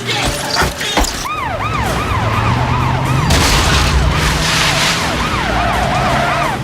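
Police siren on a fast yelp, its pitch rising and falling about three times a second, over a car engine that revs up. A couple of sharp knocks come in the first second.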